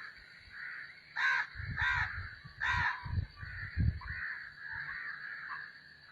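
A bird giving three harsh, caw-like calls in quick succession a little over a second in, with low thumps for a few seconds after.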